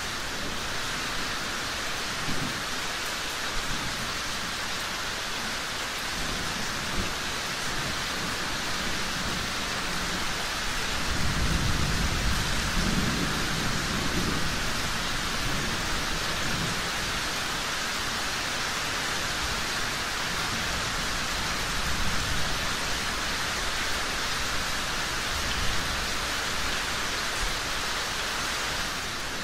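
Steady rain falling, with a low rumble of distant thunder swelling up about eleven seconds in and dying away a few seconds later.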